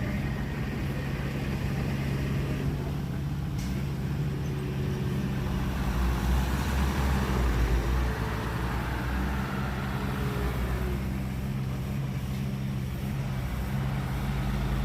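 Heavy earthmoving machine's engine running steadily under work, growing louder for a couple of seconds just past the middle.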